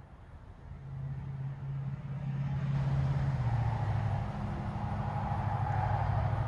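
A motor engine running with a steady low hum, growing louder over the first few seconds and then holding, its pitch dropping slightly about halfway.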